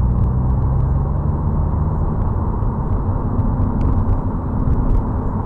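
A vehicle's engine running steadily, a low rumble with a held hum that steps up to a higher pitch about three seconds in.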